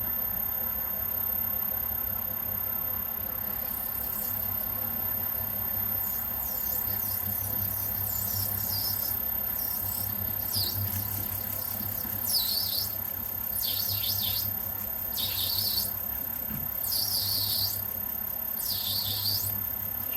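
Myford Super 7B lathe running with a steady motor hum while the cutting tool is fed into the metal and backed off again and again. Each plunge gives a short, high squeal that falls in pitch, about one every second and a half. This is pecking the cut so the stringy swarf breaks off instead of wrapping around the work.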